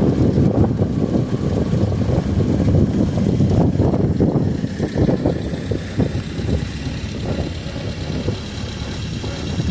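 Ford Model A truck's four-cylinder engine running, a steady, rough low rumble that eases off a little past the middle.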